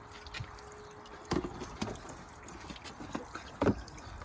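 A few sharp knocks and clatters, the loudest near the end.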